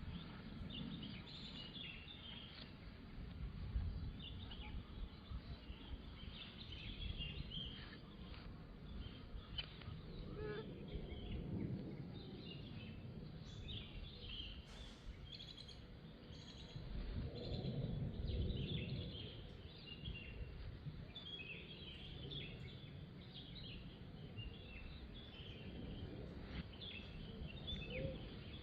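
Outdoor ambience of many small birds chirping, with a low rumble that swells a few times.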